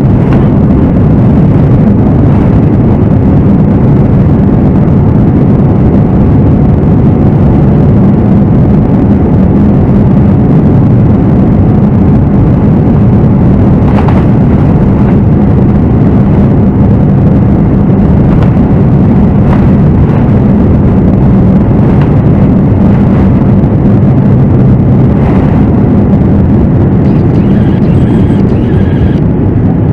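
Cabin noise of a Boeing 787-9 with Rolls-Royce Trent 1000 engines: a loud, steady roar with a low hum, and now and then a short knock or rattle.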